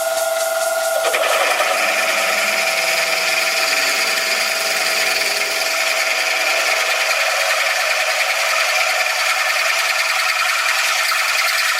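Metal being machined on a lathe, running steadily. About a second in, the steady whine gives way to a harsher, noisier cutting sound with a high whine, which continues to the end.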